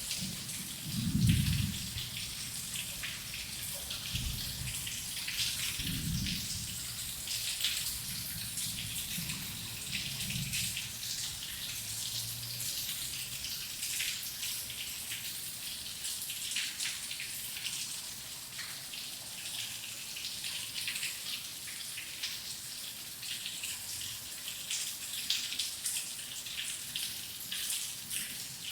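Steady heavy rain with dense pattering drops. Low thunder rumbles through the first ten seconds or so, loudest about a second in, then fades, leaving the rain alone.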